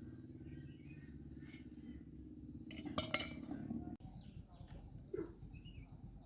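A few sharp clinks, like metal or crockery knocked together, about three seconds in, over a low steady rumble.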